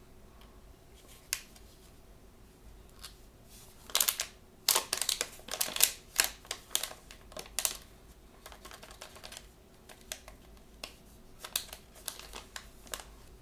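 Hands handling blind-bag packaging and small toys: sharp clicks and crinkles, in a dense flurry from about four to eight seconds in, then scattered clicks.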